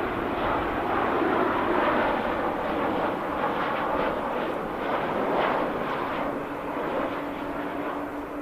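Jet airliner engine noise: a loud, rough rumble that slowly fades. A steady low hum joins about six seconds in.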